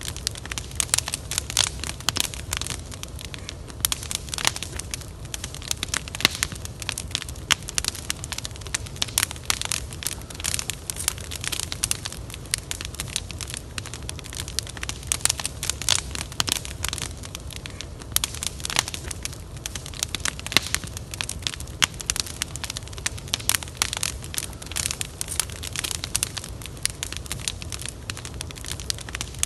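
Wood fire crackling and popping, with dense irregular snaps over a steady low rumble of burning.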